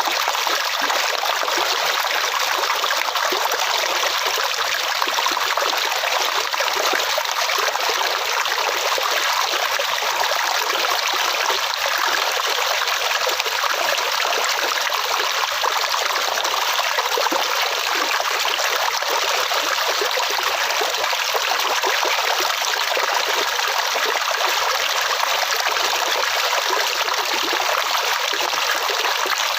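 Water flowing steadily over stones in a stream, an even rushing and trickling with no breaks.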